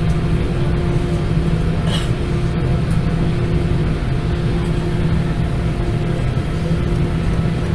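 Airbus A320 cabin noise with its CFM56 jet engines running: a steady low rumble with a constant hum.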